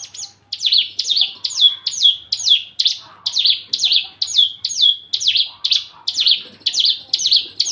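Javan bush lark (branjangan) calling in a fast, regular series of short high notes, each sweeping down in pitch, about two and a half a second. The uploader takes this for a male in full breeding condition, courting and asking to mate.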